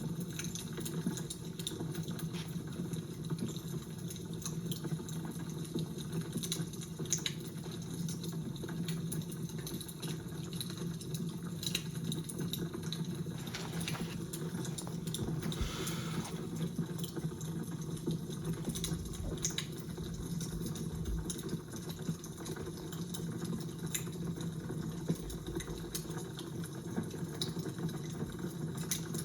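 Fire crackling: a steady low hiss with frequent sharp pops and snaps.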